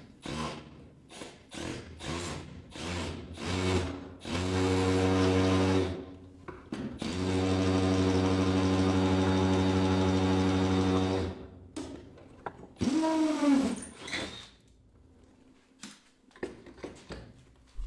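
Power drill boring a bolt hole: a few short trigger blips, then two steady runs of about two and four seconds, and a brief rev up and back down near the end.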